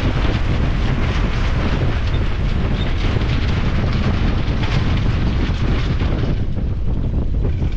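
Strong wind buffeting the microphone on a small sailboat in heavy gusts: a loud, steady low rumble with a rushing hiss that eases about six seconds in.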